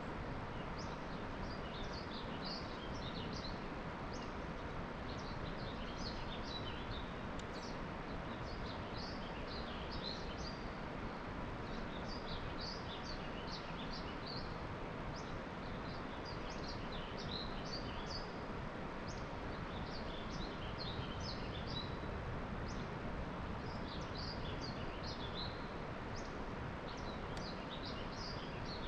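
Small birds chirping, short high calls repeating throughout, over a steady outdoor hiss.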